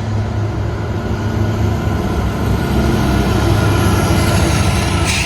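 GE Evolution Series diesel-electric freight locomotive running with a steady low engine drone. A brief sharp noise sounds near the end.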